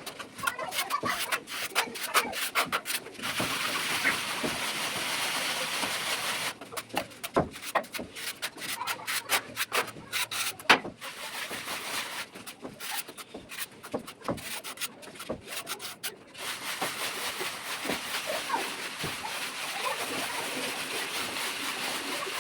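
A hand plastering tool scraping and rubbing across ceiling plaster: short, irregular scrapes and taps alternate with longer stretches of steady rubbing.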